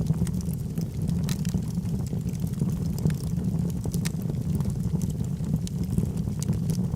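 Log fire burning in a fireplace: a steady low rumble of the flames with scattered sharp crackles and pops from the burning wood.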